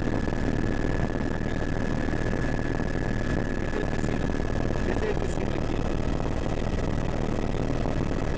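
Helicopter running: steady engine and rotor noise with a constant high whine over it.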